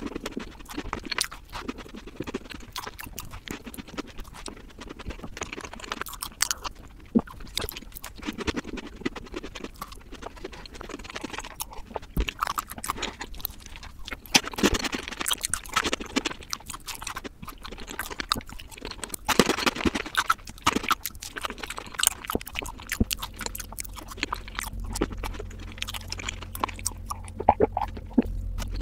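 Close-miked chewing of soft chocolate cake and chocolate-glazed pastry: a dense, irregular run of quick wet mouth clicks and smacks as she bites and chews.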